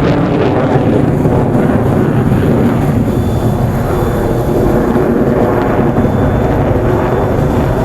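Jet noise from Su-30SM fighters' twin turbofan engines in flight, a steady loud rumble.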